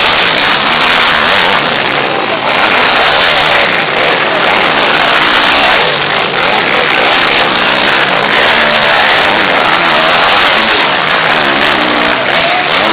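Several motocross motorcycle engines revving, their pitches rising and falling and overlapping in a loud, continuous din.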